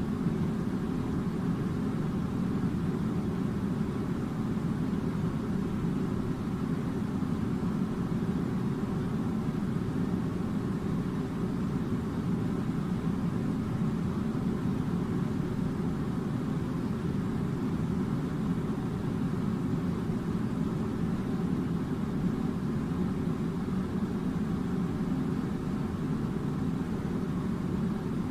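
Air conditioner running: a steady low hum and rush of air that does not change.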